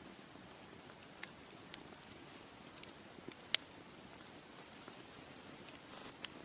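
Bonfire crackling: a soft steady hiss with scattered sharp pops, the loudest one about three and a half seconds in.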